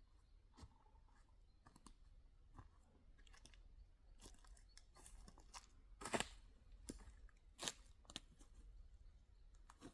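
Faint scattered crunches and clicks, the loudest two about six and seven and a half seconds in.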